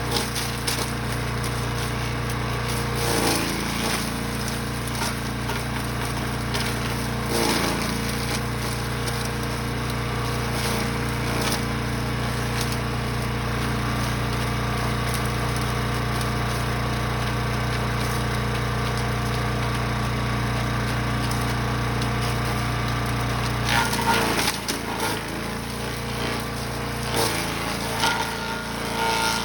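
Gas-powered wood chipper/shredder running steadily while branches are fed through, with bursts of wood cracking and splintering every few seconds. About twenty-four seconds in, a louder burst of cracking comes as the engine's note shifts under load.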